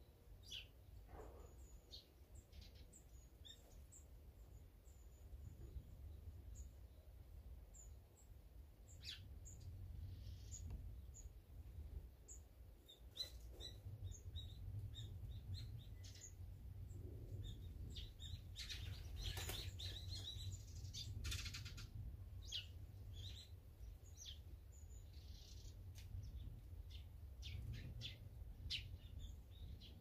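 Small songbirds chirping: short, high calls scattered throughout, with a busier flurry of calls about two-thirds of the way through, over a faint steady low rumble.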